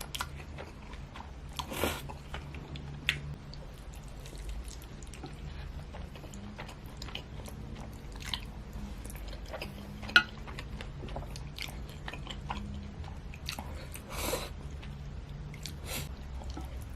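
Close-miked mouth sounds of a person eating spaghetti: wet chewing and smacking with frequent small clicks. Louder, longer noisy sounds come about 2 seconds and 14 seconds in. A steady low hum runs underneath.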